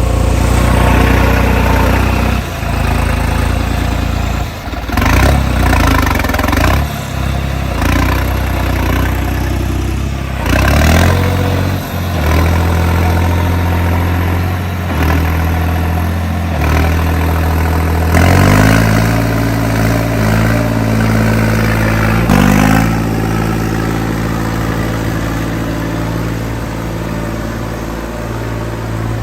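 Tractor diesel engine running under load, its pitch changing and rising sharply as it is revved up several times.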